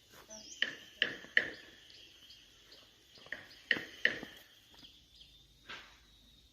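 Birds giving short, sharp chips in irregular clusters, about a dozen in all, over a faint steady high-pitched tone.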